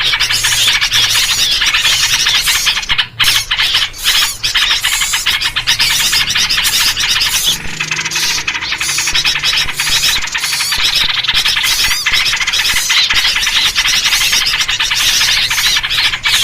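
A dense, continuous chatter of many small birds calling over one another, the noisy agitated chorus used as a bird-lure recording, with trucukan bulbul calls in the mix. It drops out briefly twice, about three and four seconds in.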